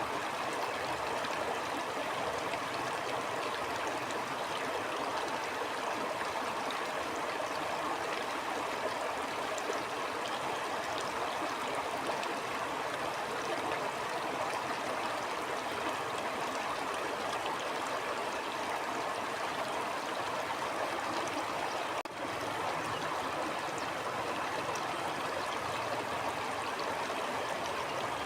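Stream water flowing and gurgling steadily, an even rushing sound with a brief dip in level about three-quarters of the way through.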